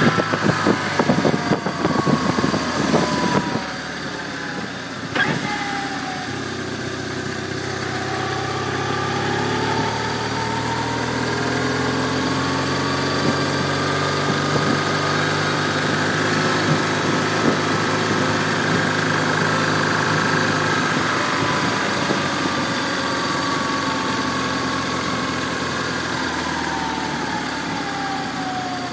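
1996 BMW R1100RT's boxer twin engine running at low road speed, its pitch slowly rising and then easing off toward the end. Wind buffets the phone's microphone for the first few seconds, and a single sharp click comes about five seconds in.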